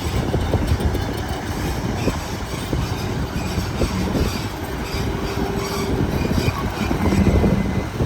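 Heavy earthmoving machinery working: a low diesel rumble packed with metallic clanks and rattles, and a few brief squeals.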